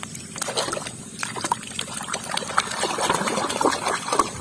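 Water trickling and splashing with small irregular clicks and knocks as a muddy plastic toy animal is washed by hand.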